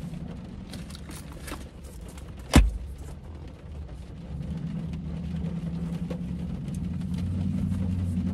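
Steady low hum inside a stopped car's cabin, with faint small clicks and one sharp knock about two and a half seconds in as things are handled in the seat.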